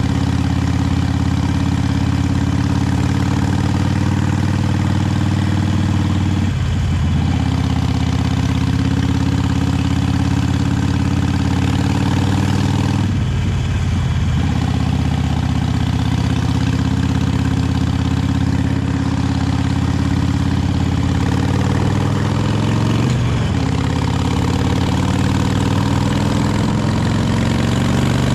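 Harley-Davidson Sportster 883 Iron's air-cooled V-twin running through its stock exhaust, a steady deep engine note. The note breaks briefly three times, about a quarter of the way in, about halfway and again near the end, and climbs in pitch before the last break.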